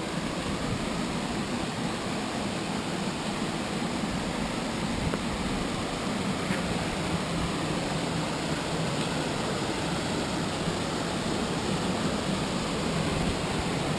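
Steady rush of water from a waterfall and its stream, an even noise with no breaks.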